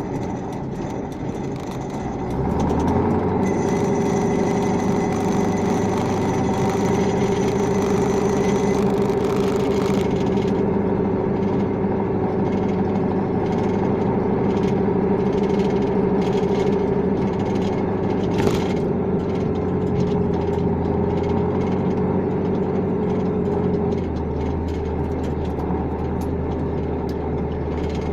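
Truck diesel engine running. It speeds up about two seconds in, holds a steady higher speed for some twenty seconds, then drops back to a lower, idle-like speed near the end.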